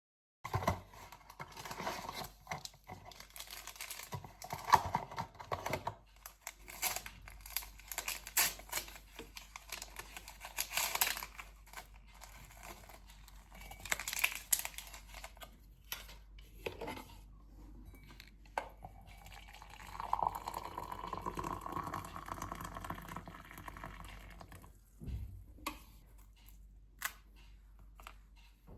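Close-up handling sounds: irregular rustling, crinkling and clicks of objects being moved and unwrapped, with a steadier hiss for a few seconds about two-thirds of the way through.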